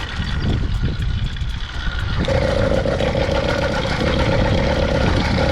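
80cc two-stroke motorized-bicycle engine running while riding, with wind rumble on the microphone. About two seconds in, a steady high drone from the engine sets in and drops out briefly twice.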